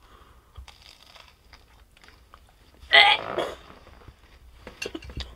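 A person biting and chewing a microwaved chicken burger in its bun, with one brief louder sound about three seconds in.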